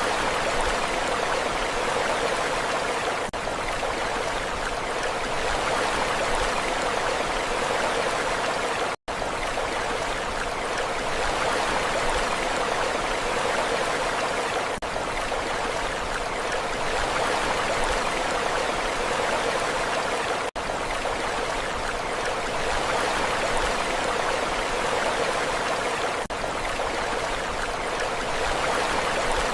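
Steady rushing water, an even hiss with no rise and fall of waves, that cuts out for an instant about nine seconds in.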